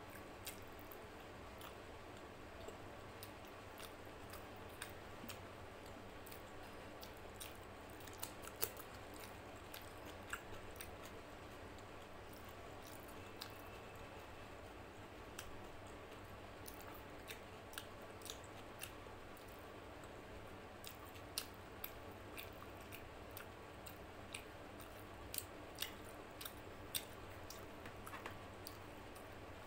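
Close-up mouth sounds of someone chewing a bite of mutton, with many small, irregular wet clicks and smacks over a faint steady background hum.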